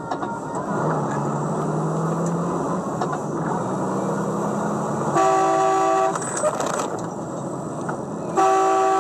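Steady vehicle and road noise with a low engine hum, cut across by a loud horn of several tones sounded briefly about five seconds in and again near the end, held on.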